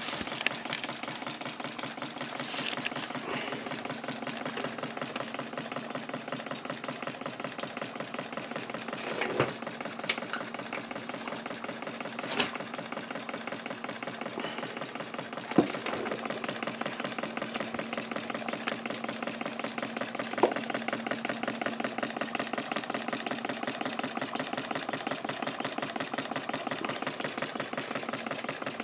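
Small homemade 1-inch-bore model steam engine running on live steam from a boiler, with a rapid, even exhaust beat. A few sharper single clicks or knocks stand out over the beat now and then.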